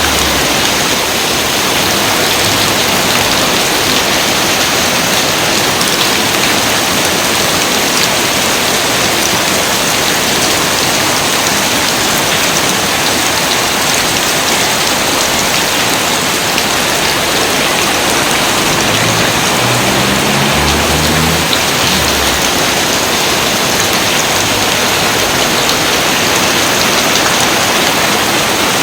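Steady rain falling, a dense, even hiss of many drops, with a brief low rumble about twenty seconds in.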